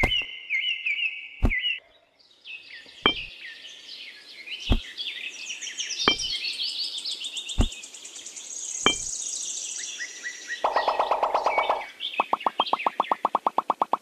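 Birds chirping and twittering, with a sharp knock about every second and a half, seven in all, through the first part. Near the end a rapid pulsing buzz sets in.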